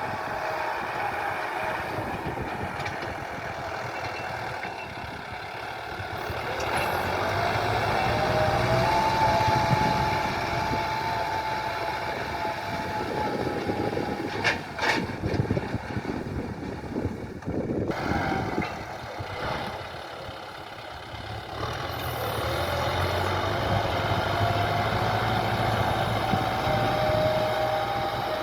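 John Deere tractor's diesel engine working under plough load, its pitch rising twice as it pulls harder. There is a run of knocks and clanks in the middle.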